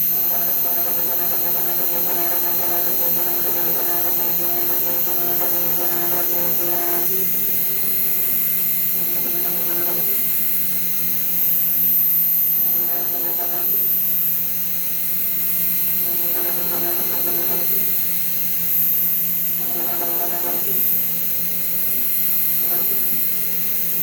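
Fox Alien XE-PRO CNC router running: a steady hum throughout, with the stepper motors whining in pitched spells as the axes move. A long move lasts about seven seconds, then shorter ones of a second or two come every few seconds.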